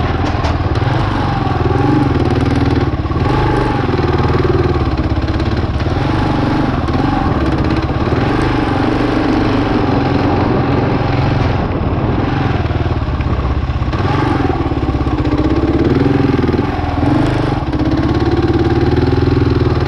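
Single-cylinder 650 cc dual-sport motorcycle engine running while riding, its pitch rising and falling over and over with the throttle.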